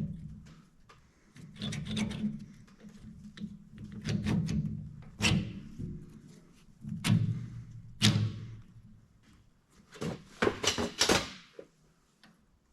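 Metal clunks and knocks from the Oliver 77 engine's rocker arm assembly being set down onto the cylinder head over the push rods. They come one every second or two, with a quick run of several about ten seconds in.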